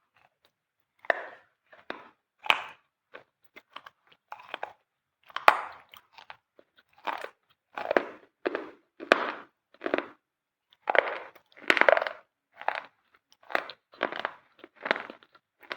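Close-up dry crunching of a white crunchy material, bitten and chewed in a string of separate crisp crunches, about one or two a second, with short silences between.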